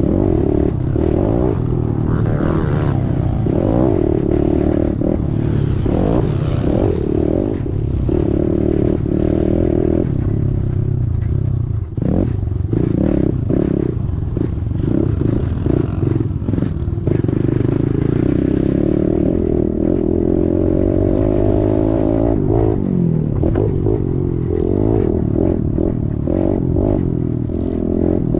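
Kawasaki KLX110 dirt bike's small four-stroke single-cylinder engine running hard and revving up and down as it is ridden, picked up by a camera mounted on the bike or rider. Frequent knocks and rattles from the bike over the rough track run through it.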